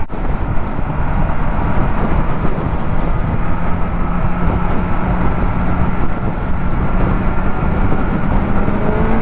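Wind rushing over a motorcycle rider's helmet, with the bike's engine running underneath at a steady pitch that climbs near the end as the motorcycle accelerates.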